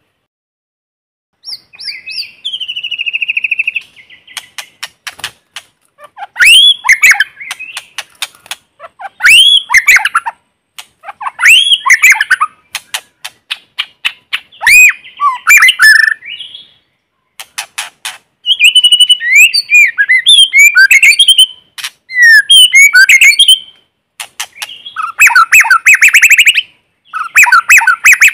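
White-rumped shama singing: loud, varied phrases of rich sliding whistles mixed with sharp clicking notes, in bursts a second or two apart, turning to fast chattering trills near the end.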